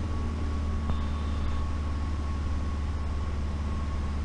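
Steady drone of a single-engine light aircraft's engine and propeller heard inside the cockpit during an approach, with gear and flaps just set. There is a thin steady whine through it and a faint click about a second in.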